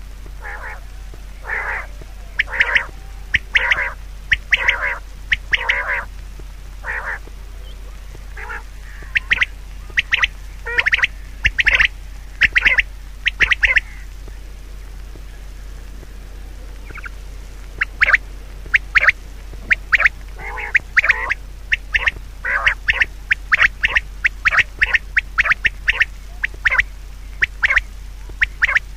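Bird calls repeated over and over in short, loud calls, in two bouts with a lull of a few seconds in the middle.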